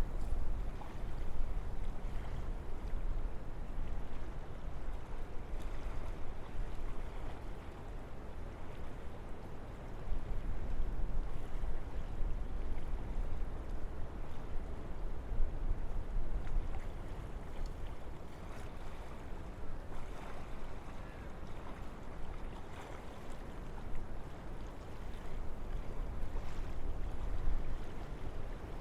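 Wind blowing through a forest: a continuous rushing with a deep low rumble that swells and eases in gusts, louder from about ten seconds in.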